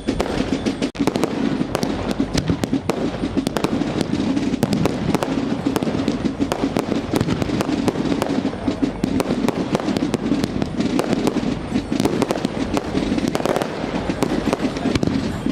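Fireworks going off in a dense, continuous barrage of rapid bangs and crackles, with no pauses.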